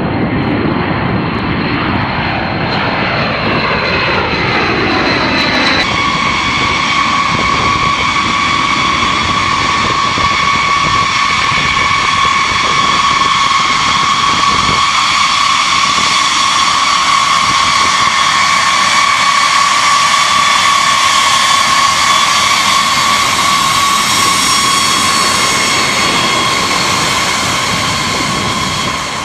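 Jet aircraft engines running, a rushing noise with a steady high whine throughout. Sweeping, falling tones in the first six seconds suggest the aircraft is moving relative to the listener.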